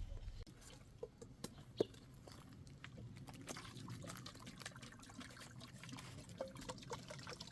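Faint trickling, pouring water with many small scattered clicks and ticks, and one sharper knock about two seconds in.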